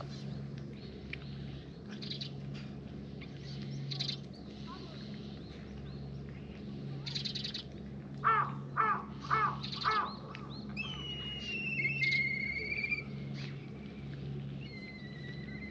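A bird calls four times in quick succession about eight seconds in, then higher whistled bird calls follow. A steady low hum runs underneath, with scattered clicks of cats crunching their food.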